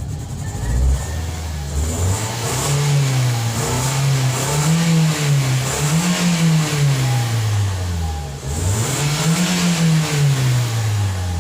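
Toyota Vios four-cylinder petrol engine running and being revved up and down about three times, having just started on one crank. This shows that the hard-starting fault is cured after the fuel pump work.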